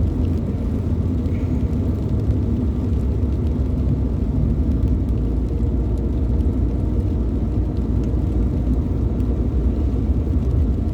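Steady rumble of a car being driven, heard from inside the cabin: engine and tyre noise with no change in pace.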